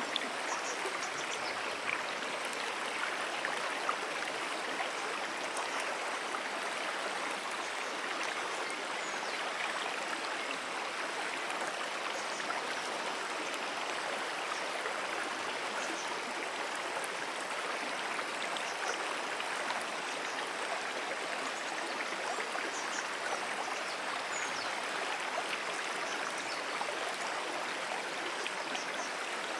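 A brook's water running steadily: a constant, even rush and babble of flowing water.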